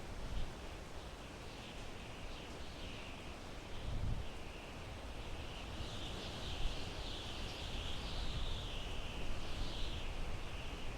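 Wind blowing through pine trees: a steady hiss that swells and eases in gusts and grows stronger in the second half, with a low gust of wind rumble about four seconds in.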